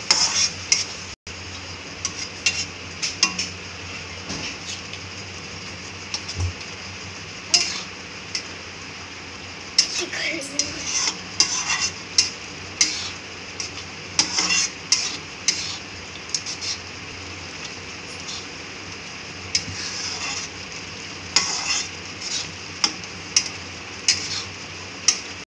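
Onion-and-tomato masala sizzling steadily in a metal kadhai, with a spatula scraping and clinking against the pan in several bursts of stirring.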